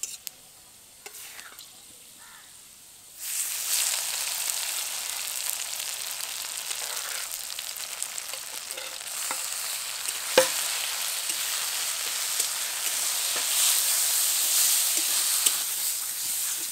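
Grated raw mango going into hot oil in a kadai: a loud sizzle starts suddenly about three seconds in and keeps on as it is stirred, with small scraping clicks and one sharp knock against the pan about halfway through. The wet mango's juice is cooking off in the oil.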